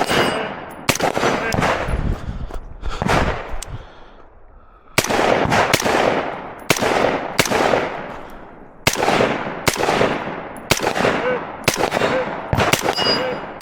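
Rifle fired in a steady string of single shots, about one every two-thirds of a second, each shot trailing a long echo. A pause of about a second and a half comes a little past a third of the way through before firing resumes.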